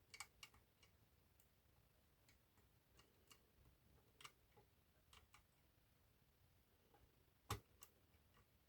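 Faint, irregular metallic clicks of a pick working the levers inside an eight-lever lock, with one sharper click about seven and a half seconds in.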